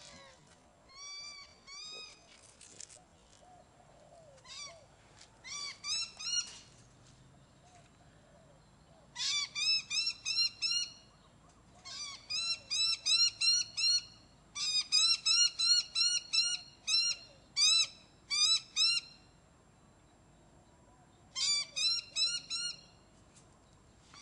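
A bird calling in quick runs of repeated piping notes, each note rising then falling in pitch. About a dozen runs of several notes each come with short pauses between, the longest and loudest in the middle.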